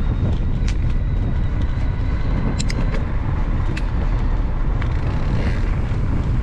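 Steady wind buffeting on an action-camera microphone with low rumble from a mountain bike rolling along a towpath, broken by a few sharp clicks.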